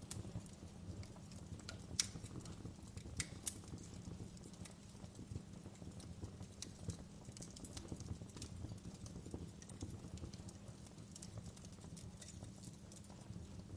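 Wood fire in a fireplace crackling: irregular sharp pops and snaps, the loudest about two seconds in, over a low steady rumble of the burning fire.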